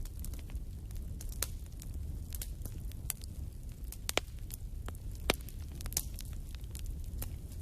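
Wood fire burning in a fireplace: a steady low rumble of the flames with irregular crackles and pops of the burning wood, two sharper snaps standing out about four and five seconds in.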